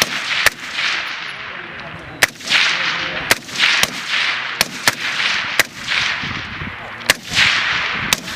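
Rifle fire on a live-fire range after a "Contact!" call: about a dozen sharp shots at irregular intervals, each followed by a short echo.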